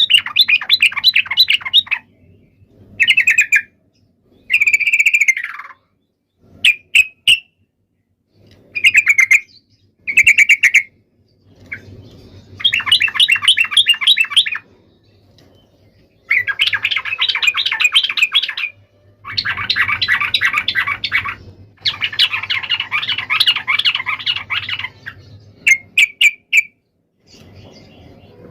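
Yellow-vented bulbul (trucukan) giving its fighting call: loud phrases of rapid chattering notes, each lasting one to three seconds, broken by short pauses and a few single chirps. This call is used to provoke other bulbuls into answering.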